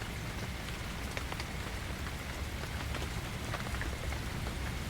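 Steady gentle rain, with single drops ticking here and there.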